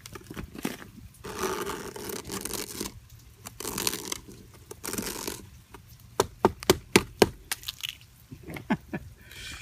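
A quarter-inch sheet of ice on a car door being broken and peeled away, crunching and scraping at first. About six seconds in it gives way to a quick run of sharp cracks.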